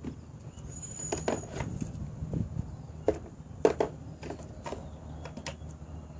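A string of light clicks and knocks from hands handling a toy car's parts while plugging in its battery connector, over a steady low background hum.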